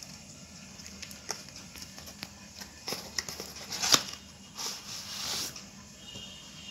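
Hands handling a power bank's retail packaging: scattered light clicks and taps, a sharp knock about four seconds in, then a short rustle.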